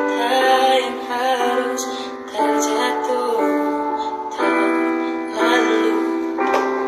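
A woman singing a slow melody in long held notes, a new note about once a second.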